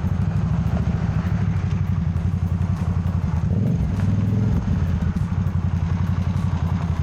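Motorcycle engine idling with a steady, pulsing beat. About three and a half seconds in, its pitch rises briefly for roughly a second before settling back.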